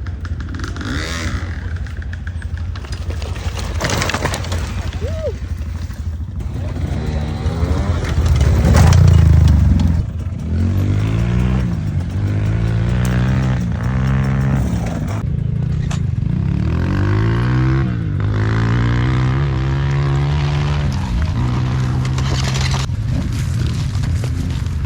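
Off-road motorcycle engines running and revving, their pitch climbing and dropping again and again as the throttle is opened and closed, loudest about 8 to 10 seconds in.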